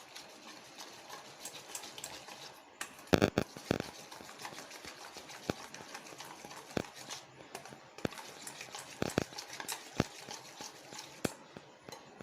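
A flour-and-cornflour batter being stirred as water is added little by little: a continuous wet mixing sound with scattered clicks and knocks, the loudest a pair about three seconds in.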